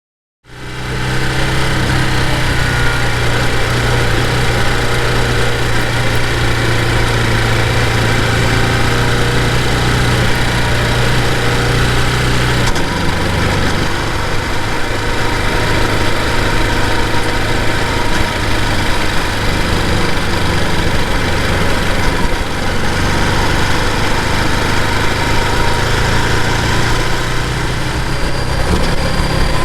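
Ducati Multistrada V2S's V-twin engine running steadily, cutting in abruptly right at the start; its low note shifts about twelve seconds in.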